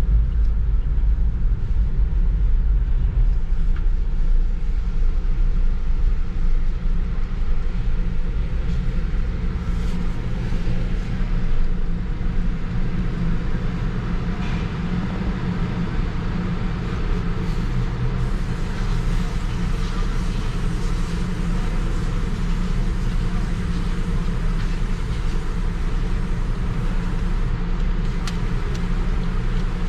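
2016 Jeep Wrangler Rubicon's 3.6-litre V6 engine and tyres rumbling as the Jeep drives along the road.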